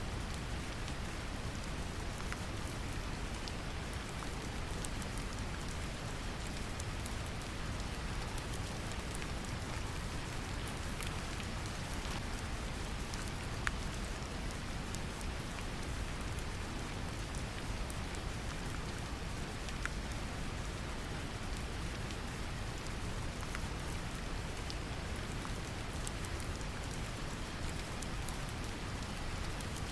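Steady brown noise with a deep rumble, mixed with gentle rain falling on a surface, scattered light drop ticks over an even hiss.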